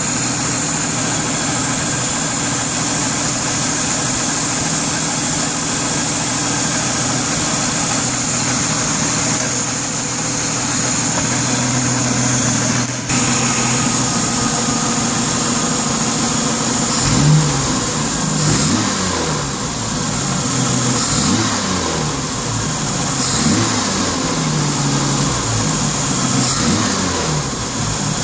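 Engine idling steadily; from about halfway through it is revved up and let fall back several times, to bring out a rattle that shows when the revs drop.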